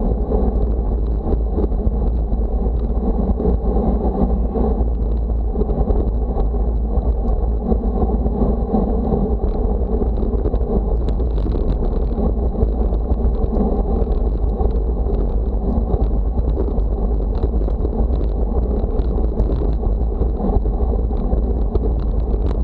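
Wind buffeting the microphone: a loud, steady, low rumble with no breaks.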